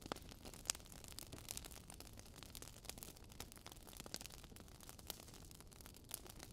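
Fire crackling softly: irregular small snaps and pops, a few louder than the rest, over a faint low hiss.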